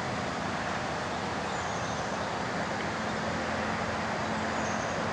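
Steady roadway traffic noise with a faint constant hum.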